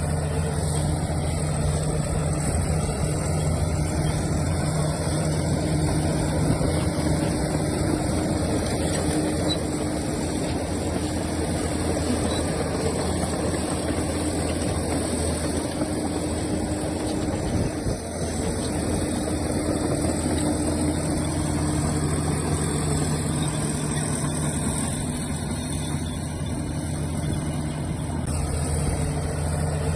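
Heavy diesel earthmoving engine running steadily at a low, even pitch, with a brief dip in loudness partway through.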